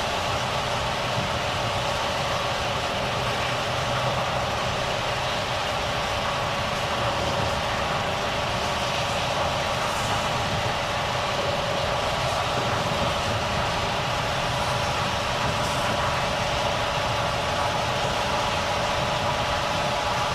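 Volvo FH truck's engine running steadily, a constant hum with a few held tones and no change in pitch.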